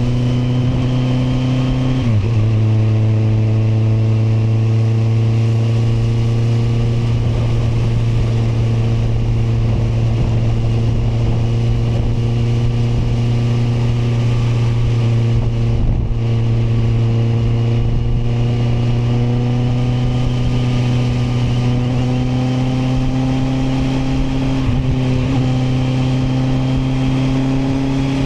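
Kawasaki motorcycle engine running under way at a steady speed, its note dropping with a gear change about two seconds in and then rising slowly as it speeds up near the end.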